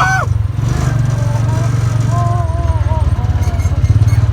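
A small engine running steadily with a fast low pulsing rumble. A faint voice is heard over it from about one and a half seconds in.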